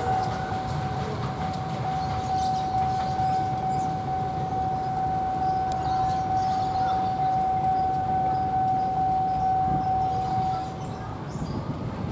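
Passing train rumbling, with one steady high-pitched tone held over it that cuts off about eleven seconds in.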